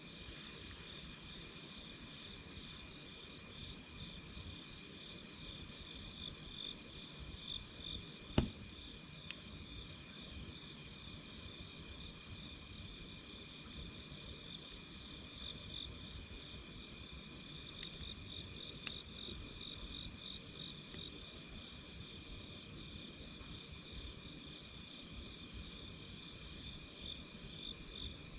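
Insects chirping in a steady, high, pulsing drone, over a low crackle of a campfire. A single sharp pop sounds about eight seconds in, and a couple of fainter ticks follow later.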